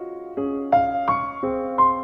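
Piano playing a gentle melody: a held note fades out, then single notes are struck about three a second, each ringing and dying away.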